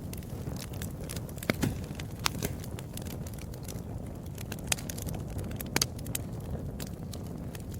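Wood fire crackling: irregular sharp pops and snaps, a few each second, over a steady low rumble of the burning.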